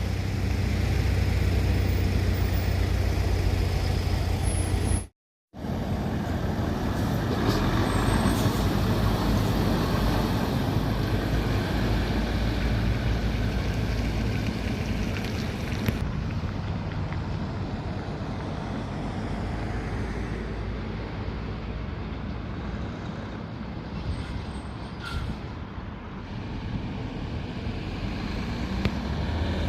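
Heavy diesel trucks running and driving past, a steady low engine and tyre noise. The sound drops out for a moment about five seconds in.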